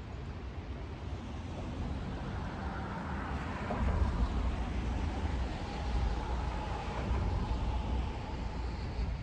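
A low rumble that builds over the first few seconds, holds, and eases off near the end, with a faint steady hum above it.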